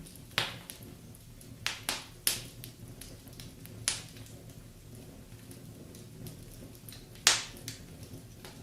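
Wood fire burning in a fireplace, crackling: about six sharp, irregular pops over a low steady background. The loudest pop comes about seven seconds in.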